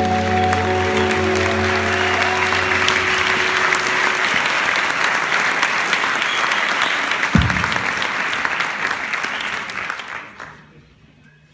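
Audience applause over the last held chord of a live rock song, with the chord dying away after a few seconds. A single low thump comes midway, and the applause fades out near the end.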